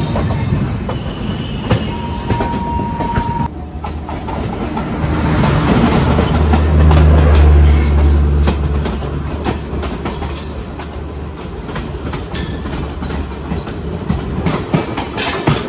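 A passenger train running at speed, heard from an open coach doorway: a steady rumble and rattle of wheels on rail, with clicks from the rail joints. It grows louder for a few seconds in the middle as another train runs close alongside on the next track. A thin steady whine in the first few seconds stops suddenly.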